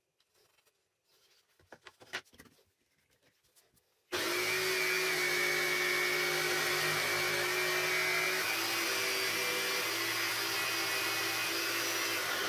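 Faint handling clicks, then an electric motor, a power tool or shop vacuum, starts abruptly about four seconds in and runs at a steady speed with an even hum over a wide hiss.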